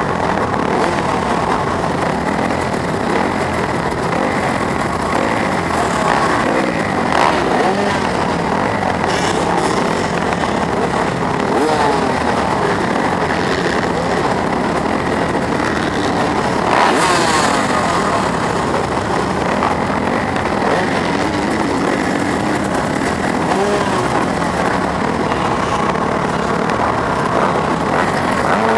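250cc four-stroke motocross bike engine racing, heard from a camera mounted on the bike, its pitch climbing and dropping over and over as the throttle is worked. A few short knocks cut through about 7, 11 and 17 seconds in.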